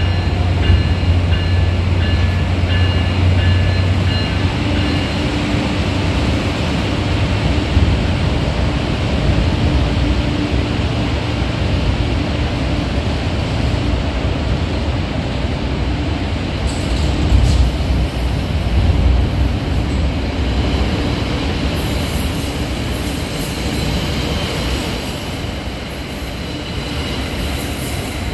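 NJ Transit commuter train pulling out past the platform. A steady low drone from the locomotive comes in the first few seconds, then the continuous rumble and clatter of its coaches rolling by, easing slightly near the end as the cab car passes.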